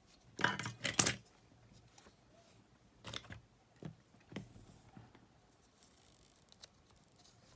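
Small clicks and scrapes of handling a Walkman battery box and its metal contact strip as it is fitted into place: a cluster of clicks with a sharp snap about a second in, then three lighter clicks a little later.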